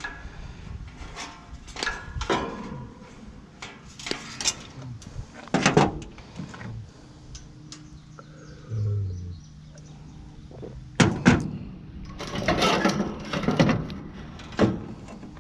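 Irregular metal clanks and knocks from tools working on an air-conditioning unit as it is dismantled for scrap, with a few louder bangs about halfway through and a quick run of knocks near the end.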